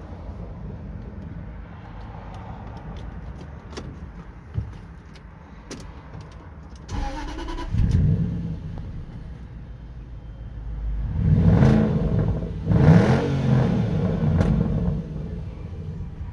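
Range Rover 4.0-litre V8 on its factory exhaust, idling, blipped briefly about seven seconds in, then revved up twice before dropping back to idle.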